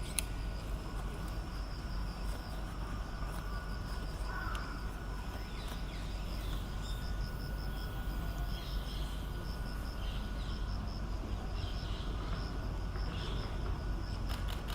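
Insects trilling steadily, in a fast pulsing rhythm, over a constant low rumble of outdoor background noise, with a few faint short chirps now and then.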